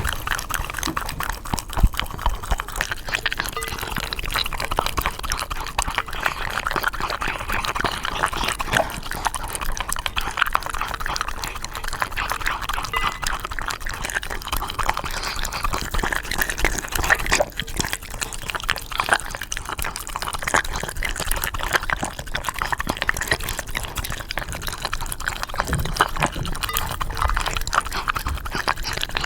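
Shiba Inu lapping water from a bowl: a quick, steady run of wet laps and splashes.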